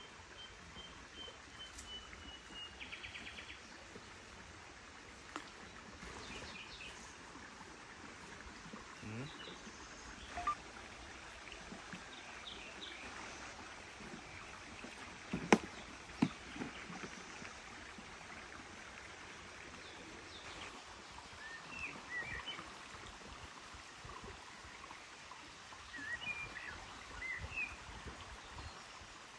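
Quiet outdoor ambience with wild birds chirping and calling now and then: a short run of falling notes and a buzzy trill near the start, more chirps later on. A single sharp click about halfway through is the loudest sound.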